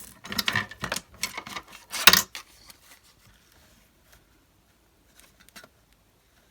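Paper being cut and handled: a run of sharp snips and rustles over the first two seconds or so, loudest just after two seconds in, then only a few faint taps.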